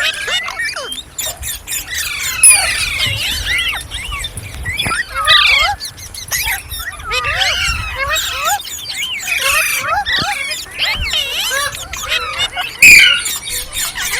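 Indian ringneck parrot chattering without pause in fast, warbling, gliding calls and squeals, broken by sharp squawks, the loudest about two seconds in and near the end.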